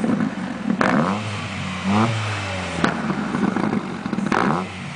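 Toyota Corolla engine revved in several short blips, its pitch rising and falling, with sharp pops from the exhaust about a second in, near three seconds and after four seconds: backfiring that goes with flames from the tailpipe.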